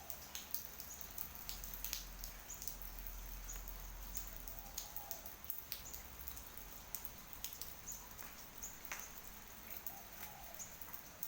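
Raindrops dripping and pattering irregularly, with faint high-pitched chirps in the background.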